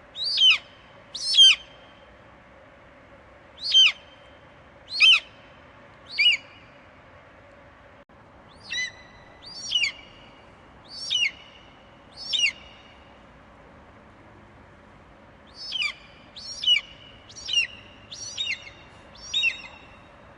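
Eagle screeching: short, high calls that each slide downward in pitch, repeated in loose bouts of two to six at about one a second. A faint steady hum runs underneath.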